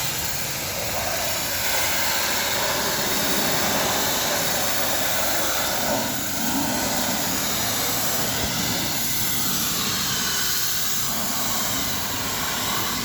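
High-pressure car-wash equipment running with a steady, loud rushing hiss, dipping slightly about six seconds in.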